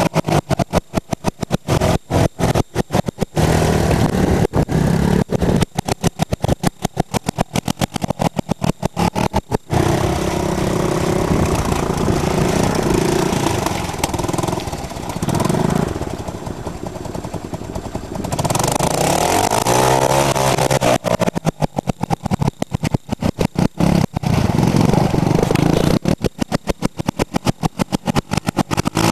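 Honda Big Red 250ES three-wheeler's single-cylinder four-stroke engine running and revving up and down under throttle. For much of the time the sound is chopped by rapid, repeated cut-outs, steadier for a stretch in the middle.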